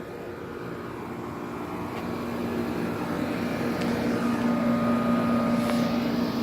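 Central air conditioner outdoor condensing units running: a steady hum of compressor and fan with a low steady tone, growing louder about two seconds in and then holding.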